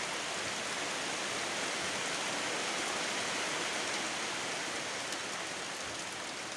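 Rain falling steadily: an even, continuous hiss.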